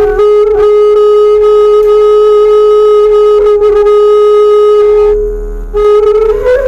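Bamboo suling flute played by a beginner: one long held note for about five seconds, a short break for breath, then a second note that climbs higher near the end. A steady low hum sits underneath.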